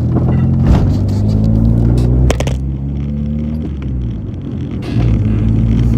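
Car engine running, heard from inside the cabin as a steady low hum, with a couple of sharp knocks as the camera is handled and repositioned.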